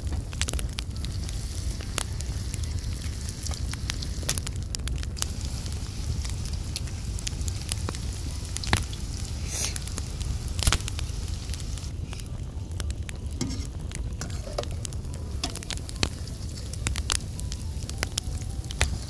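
Mashed-potato fries frying in hot oil in a wide metal pan: a steady sizzle with scattered sharp pops.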